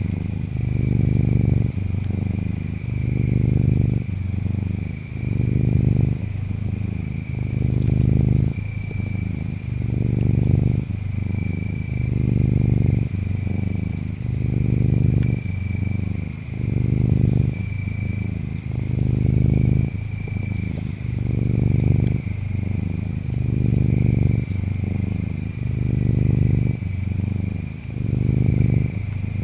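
Ginger tabby cat purring steadily, the low rumble swelling and easing with each breath about every two seconds. Over it, insects chirp in a steady high band with short brighter chirps.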